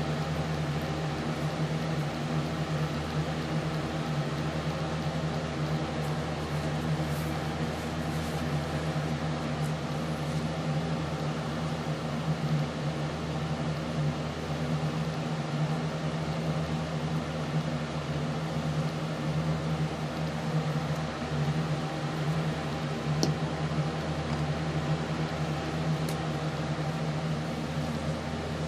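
Steady low machine hum, like a fan or other running appliance, unchanging throughout, with a couple of faint ticks near the end.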